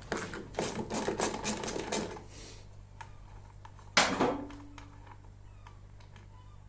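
Ratchet wrench clicking in a quick run as a tight lawnmower wheel fastener is backed off, then one loud metallic clank about four seconds in, followed by a few faint ticks.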